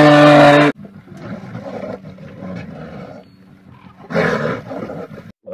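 A red deer stag's loud, drawn-out roar ends within the first second, followed by quieter, rough, breathy animal sounds and one short, louder rough call about four seconds in.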